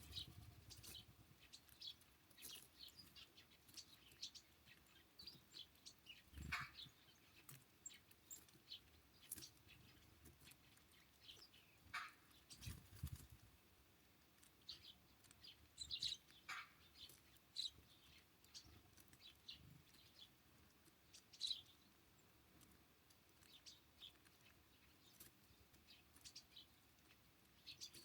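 Small songbirds at a winter feeder giving short, faint, scattered chirps and call notes, with a few sharp taps among them.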